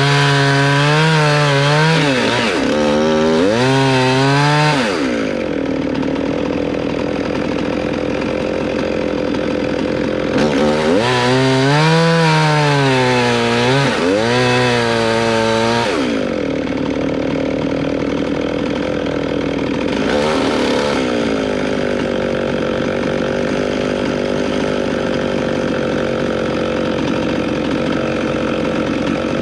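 Stihl MS311 chainsaw cutting wood in two spells, its engine pitch rising and falling under load, and running at a steadier, lower pitch between and after the cuts.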